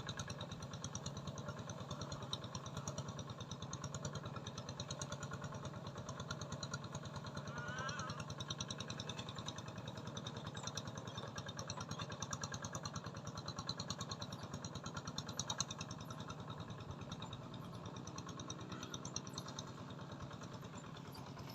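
A small engine running steadily at idle, with an even, fast pulsing throb.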